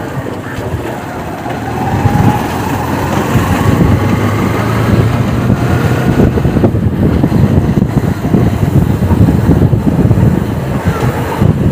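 Honda Unicorn motorcycle engine running in gear on the move, with a whine that climbs in pitch over the first few seconds as it picks up speed, and wind on the microphone. The running-in-gear noise is a fault that the mechanic links to a gear bearing.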